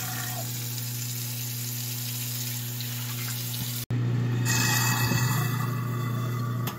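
Kitchen garbage disposal motor running with a steady hum while water rushes down the sink drain, which now drains freely with the blockage cleared. There is a brief break about four seconds in, after which the rushing water is louder.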